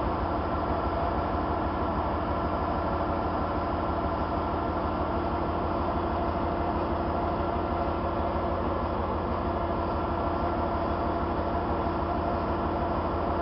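Heavy truck's diesel engine running steadily, with a fast, even low throb.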